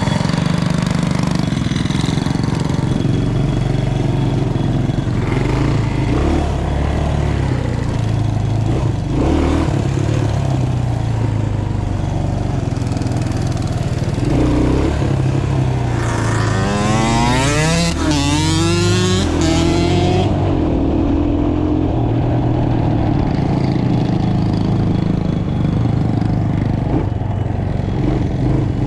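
Several small mini bike engines running at once. At about sixteen seconds in, one close by revs up and down several times for a few seconds before settling back into the steady mix.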